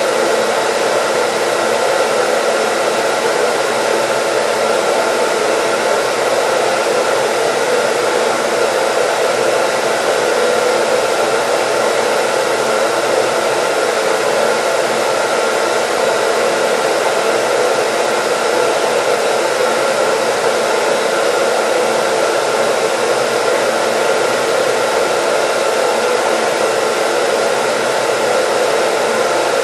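Hair dryer running steadily: an even, unbroken rush of air with a faint motor whine, used as white noise.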